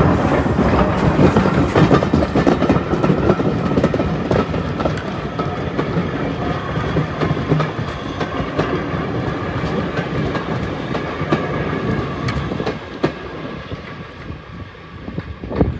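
Heritage railway train running past on the track, its wheels clattering over the rail joints, the sound fading gradually as it moves away.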